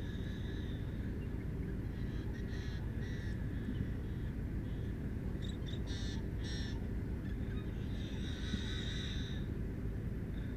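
Wetland birds giving short, harsh, crow-like calls in three bouts, over a steady low rumble.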